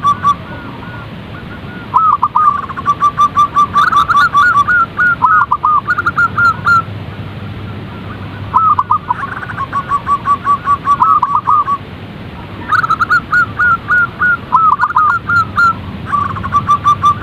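Zebra doves (perkutut) singing: repeated phrases of rapid staccato notes that rise and dip, each phrase a few seconds long with short pauses between. At times two phrases at slightly different pitches overlap. A steady hiss runs under the song.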